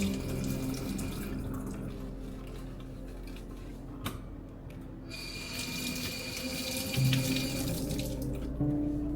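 Water running from a tap into a sink in a steady stream, with a single sharp click about four seconds in.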